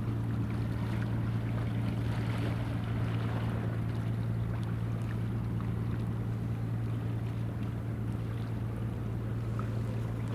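Boat engine running steadily, a constant low drone, with wind and water noise over it.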